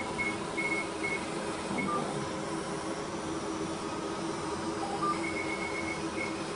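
Fraxel Repair CO2 laser system running with a steady hum and giving short high beeps as it fires: a few spaced beeps in the first couple of seconds, then a quick run of beeps near the end, with two single lower blips between.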